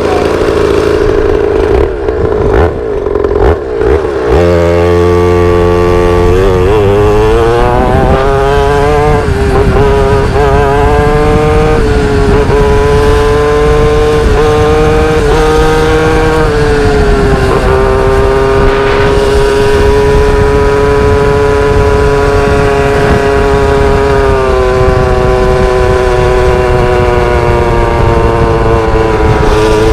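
Pit bike's small single-cylinder engine running under way, loud. After a few uneven seconds its pitch climbs as it accelerates, then holds fairly steady, dipping briefly a few times.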